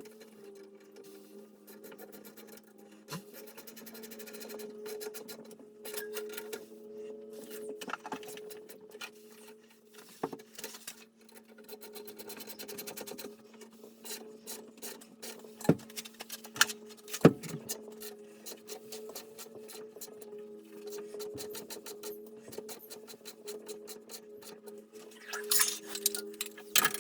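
Hands working with hoses and fittings: rubbing and rasping, with a few sharp knocks, the loudest near the middle. A steady low hum runs underneath.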